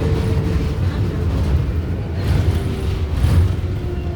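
Interior of an R188 subway car in motion: a steady, loud rumble of steel wheels on the rails, with a thin traction-motor whine slowly falling in pitch as the train slows toward a station.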